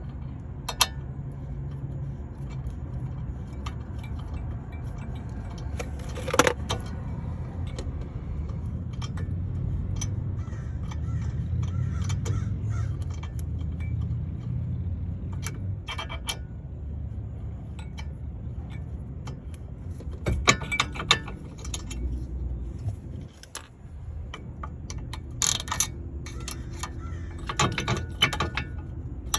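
Metal tools and parts clinking and jangling, with an occasional scrape, over a steady low hum.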